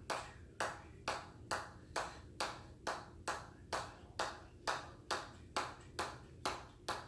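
A ball bouncing again and again on the head of a hammer: sharp ringing taps in a steady rhythm, a little over two a second.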